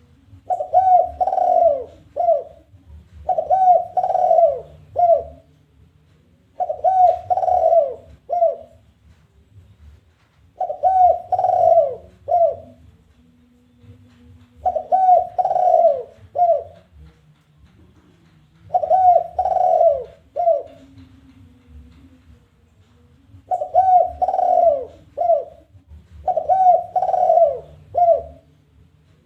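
Spotted dove (tekukur) giving its challenging song. Each phrase is two or three falling coos followed by a single short 'kuk' note. The phrase repeats every three to four seconds, eight times.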